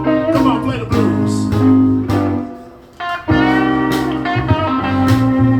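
Live blues band playing, a guitar line over bass and drums. The band drops out briefly about two and a half seconds in, then comes back in together.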